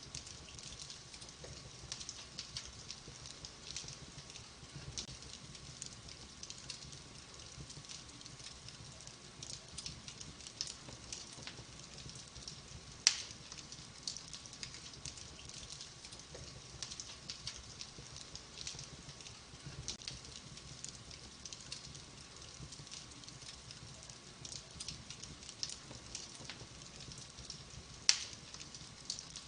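Wood fire burning in a fireplace, crackling steadily with many small snaps and two louder sharp pops, one near the middle and one near the end.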